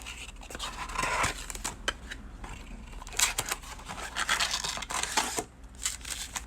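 A sealed box of baseball card packs being cut and torn open: irregular scratchy snips, scrapes and rips of wrapping and cardboard.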